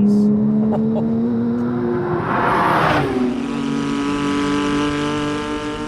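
Porsche 997.1 GT3 RS's Mezger flat-six, through an Akrapovic bypass exhaust, pulling under load with revs climbing. About two and a half seconds in there is a brief rush of noise as the pitch drops at a gear change, then the engine pulls steadily again.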